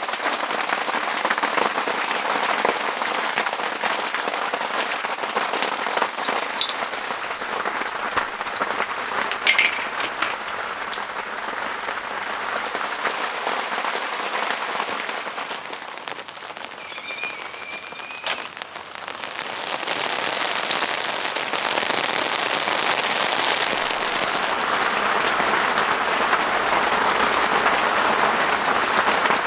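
Rain pattering steadily, growing louder and heavier about two-thirds of the way through. A brief high-pitched whistle-like sound comes a little past the middle.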